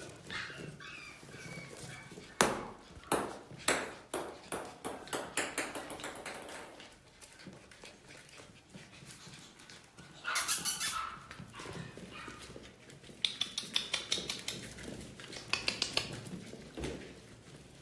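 Eight-week-old Biewer terrier puppies moving and playing, heard as runs of quick sharp clicks and taps, with a brighter burst about ten seconds in.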